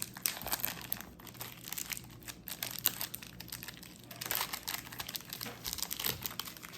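Plastic chocolate wrapper crinkling irregularly as it is handled and opened.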